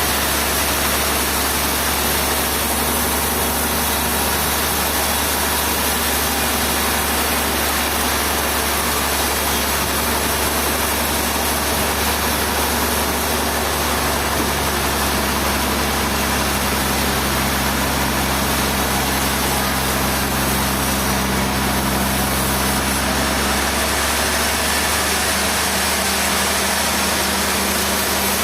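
An engine running steadily under a constant hiss, its low note shifting slightly about halfway through and again near the end.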